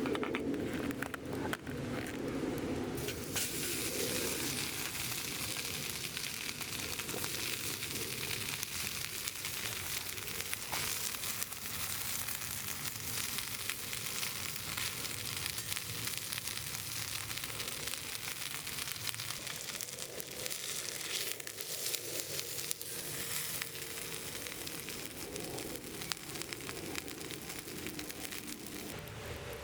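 Fatty meat sizzling on a grill over a wood campfire, full of fine crackles as dripping fat catches fire. The sizzle grows much louder about three seconds in.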